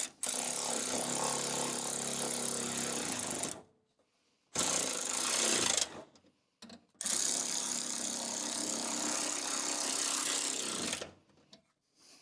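A power tool runs the bolts in three bursts: about three seconds, then a second and a half, then about four seconds.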